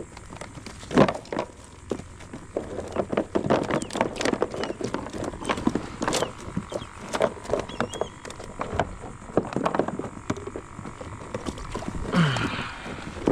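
Irregular clicks, taps and knocks, loudest about a second in, with a brief low falling tone near the end.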